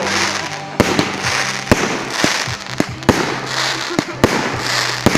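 Fireworks going off close by: a rapid series of sharp bangs and cracks with repeated swells of crackling hiss, about one every half second to second.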